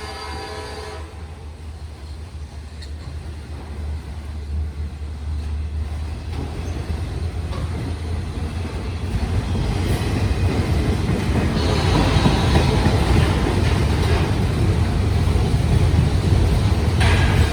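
Air horn of a pair of Union Pacific diesel locomotives cuts off about a second in. Then the locomotives' rumble grows steadily louder as the autorack freight train approaches.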